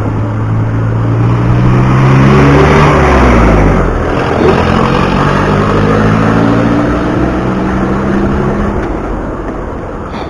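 A motor vehicle's engine passing close by on the road: its note climbs and is loudest about two to three seconds in, then drops in pitch as it goes past, over steady wind and road noise.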